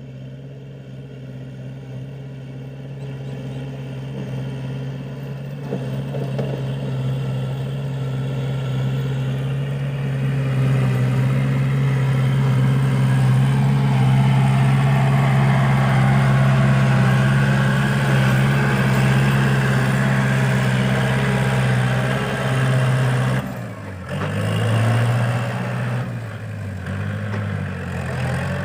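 Kubota L5018 tractor's diesel engine running under plowing load. It grows steadily louder over the first ten seconds or so, holds, then dips and changes pitch about three-quarters of the way through before running on unevenly.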